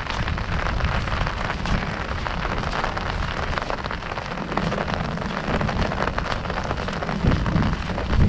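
Heavy rain falling on an umbrella overhead, a dense steady patter of drops, with a low rumble underneath.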